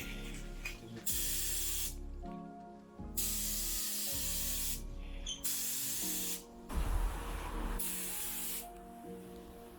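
Paint being sprayed onto a car's engine bay in several short hissing bursts, each a second or less, with pauses between passes.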